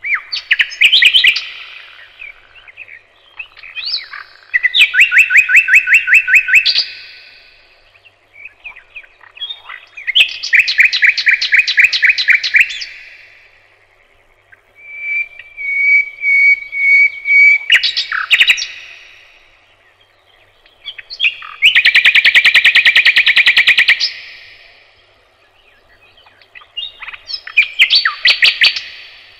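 A songbird singing close by: about six loud phrases of rapid trilled, repeated notes, each lasting two or three seconds with short pauses between them, one phrase partly a steady whistled tone.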